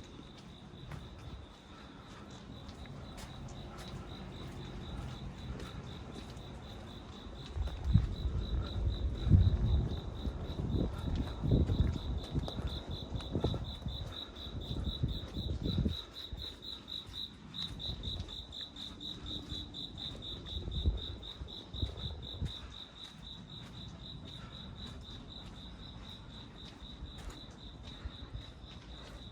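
Crickets chirping in a steady, fast pulsing trill, swelling louder in the middle. For several seconds in the first half, bursts of low rumble and thumps rise over it and are the loudest sound.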